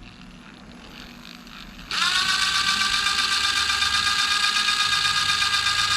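A small electric motor, most likely a power tool, spins up suddenly about two seconds in and then runs at a steady high pitch with a whine and a hiss over it.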